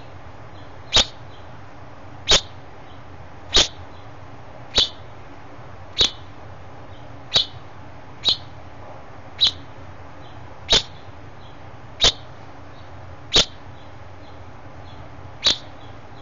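A finch calling: a short, sharp chirp repeated twelve times, roughly once a second, with fainter chirps in between.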